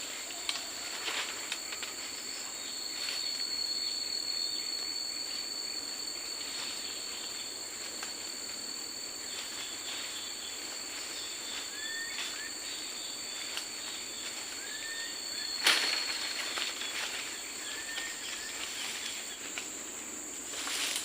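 Forest insects trilling steadily at two high pitches, with a short rising bird call repeated three times and a single sharp knock about three quarters of the way through.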